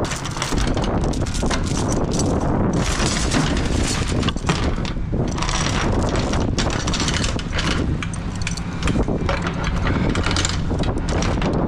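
Steel load-securement chains clanking and rattling as they are handled, in a quick run of metallic clinks, with wind buffeting the microphone.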